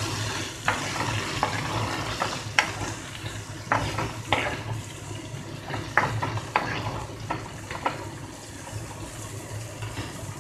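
Chopped onion, peas and tomato frying in oil in a non-stick pan, a steady sizzle, while a steel slotted spoon stirs them with irregular scrapes and clicks against the pan.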